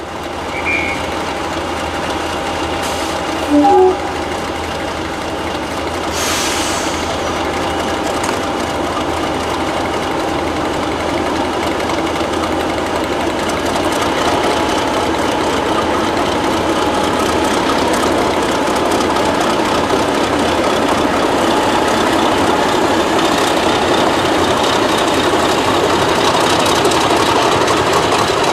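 Class 50 diesel locomotive's English Electric 16-cylinder engine running steadily and building gradually, with several steady tones over a low hum. A short loud tone cuts in briefly about three and a half seconds in.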